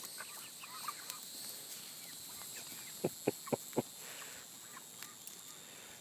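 Chickens clucking and chirping, with a quick run of four short, louder sounds about three seconds in, over a faint steady high-pitched hum.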